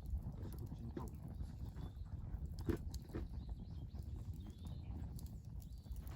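Wood campfire crackling, with scattered snaps and pops, the sharpest a little under three seconds in, over a steady low rumble.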